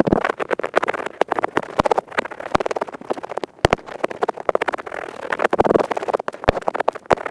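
Earpick scratching fast and close to the microphone: a dense, continuous run of crisp scraping scratches and clicks, with a few sharper clicks standing out.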